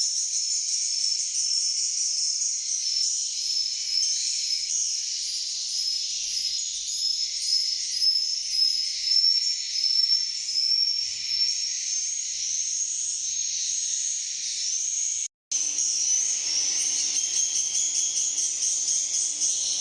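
A flock of edible-nest swiftlets twittering: dense, high-pitched chirps that run on without a break. The sound cuts out briefly about 15 seconds in, and after that a faint steady low hum joins the chirping.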